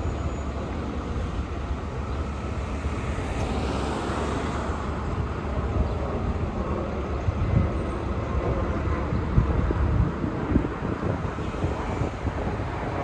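Road traffic going by on a busy street, a steady low rumble with a few short louder knocks in the second half.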